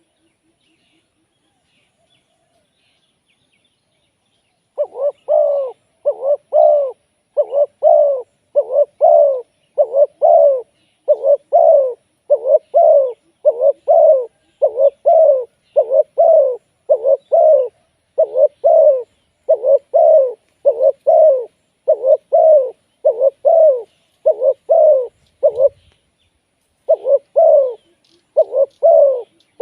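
Spotted dove cooing: a long run of short, evenly spaced coos, about one and a half a second, starting about five seconds in, with a brief pause near the end.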